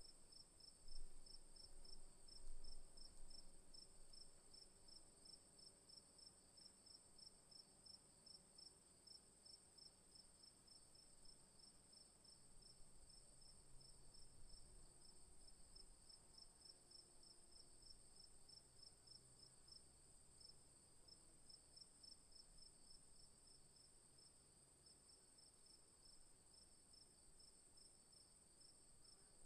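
Faint chorus of night insects, crickets among them: one steady high-pitched trill and a second song pulsing rapidly just below it, running without a break. Low rumble underneath, with two brief low bumps about one and two and a half seconds in.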